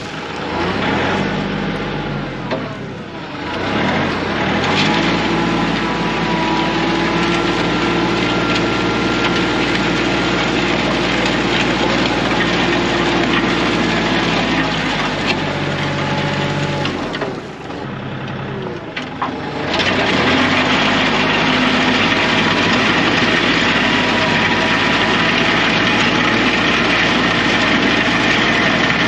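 Kioti CK3510 compact tractor's diesel engine running under load. The sound dips and shifts pitch briefly twice, about three seconds in and again a little past halfway, then holds steady.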